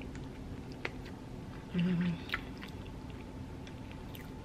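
A person chewing a soft boiled potato from a seafood boil: scattered wet mouth clicks and smacks, with a short hummed 'mm' about two seconds in.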